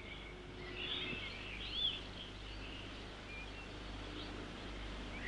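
Small songbird calling: scattered short chirps and twittering phrases, over a faint steady low hum.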